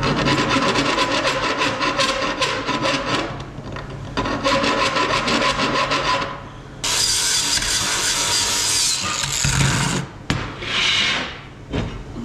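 A power tool cutting sheet metal with fast, rapid strokes, in several bursts with short pauses between them.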